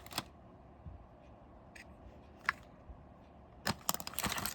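Metal drill bits being handled and set down: a few separate light clicks, then a quick run of clicking and clattering near the end.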